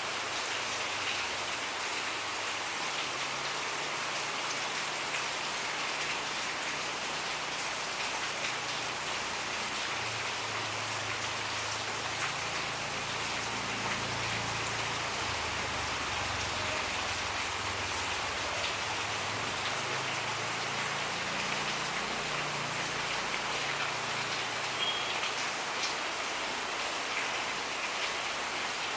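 Steady rain falling, with the close patter of drops on surfaces. A faint low rumble comes and goes through the middle.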